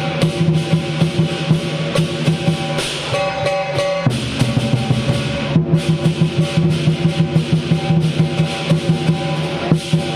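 Lion dance percussion playing a fast, even beat: a big drum with clashing cymbals and ringing gong tones.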